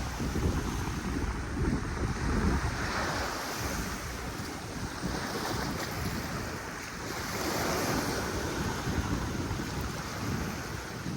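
Sea waves washing onto the shore, swelling and ebbing slowly, with wind gusting on the microphone.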